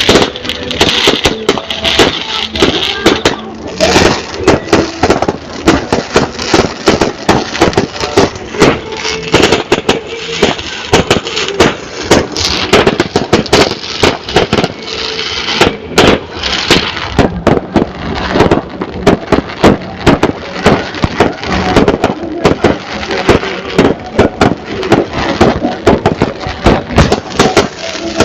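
Large bonfire burning, with loud sharp crackles and pops coming several times a second without a break.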